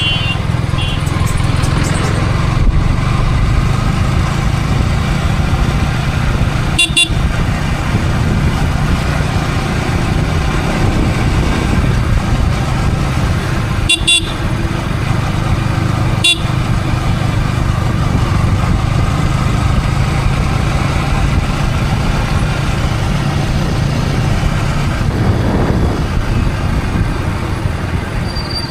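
Yamaha R15 V3's 155 cc single-cylinder engine running steadily under way, heard from the rider's helmet. A few short sharp sounds cut in, about seven, fourteen and sixteen seconds in, which fit traffic horn toots.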